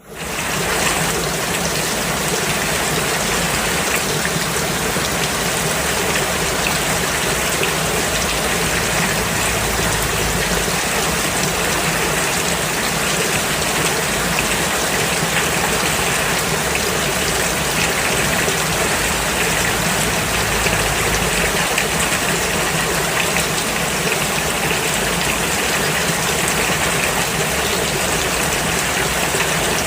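Rain falling steadily on a road: a dense, even hiss that fades in at the very start and holds level.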